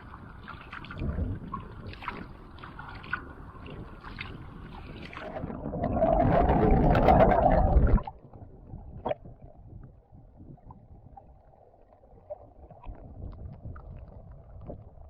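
Sea kayak paddling: paddle strokes splashing and water lapping against the hull. About six seconds in, a loud rushing noise builds for about two seconds and cuts off suddenly, then the water sounds carry on more quietly.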